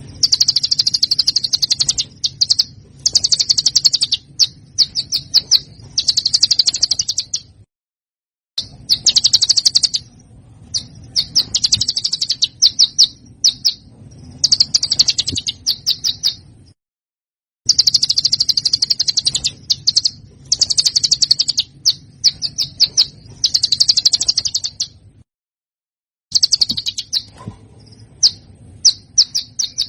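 High, rough, rapid trills and chattering bursts from a small songbird, in phrases of one to two seconds, as on a songbird tutoring (masteran) recording. The recording cuts to dead silence three times, roughly every nine seconds.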